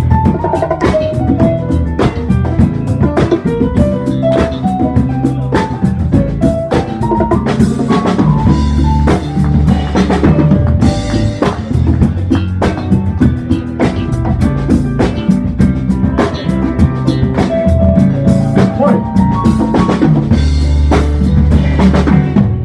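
Funk band playing live in an instrumental stretch between sung verses: drum kit keeping a steady beat with snare and bass drum over a strong bass line, while a melody moves up and down in single notes.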